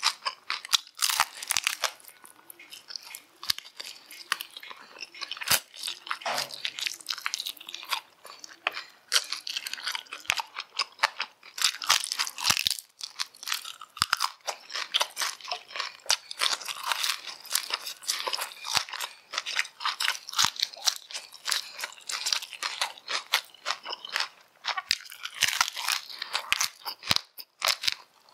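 Close-miked chewing and crunching of fried rat meat, with many sharp crackles in quick succession.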